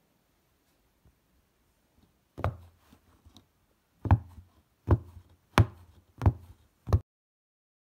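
Six sharp knocks, the first alone and the other five coming a little under a second apart, the sound cutting off abruptly after the last.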